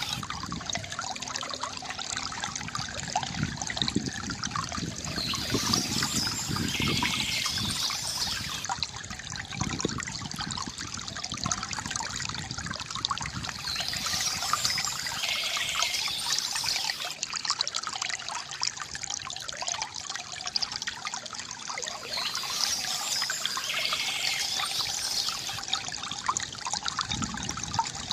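Water trickling and gurgling from a bamboo fountain, with birds chirping in a burst that comes back about every nine seconds.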